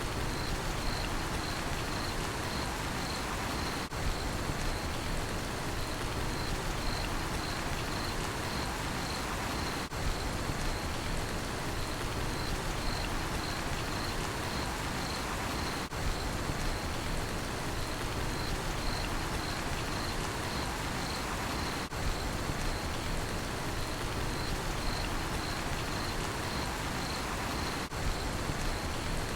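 Steady rain falling, with a cricket chirping in a regular pulse of about three chirps a second. The sound dips briefly about every six seconds.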